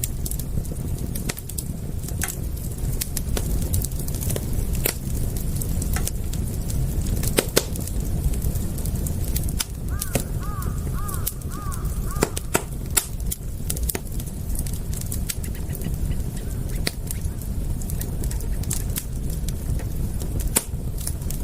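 Wood fire crackling, with sharp pops over a steady low rumble. About halfway through, a bird calls about six times in quick succession.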